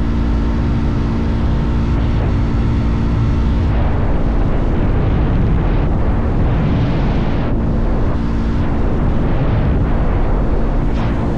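Motorcycle engine running at a steady cruising speed, its even note heard under heavy wind rumble on the microphone, with the hiss of the airflow swelling and fading a few times midway.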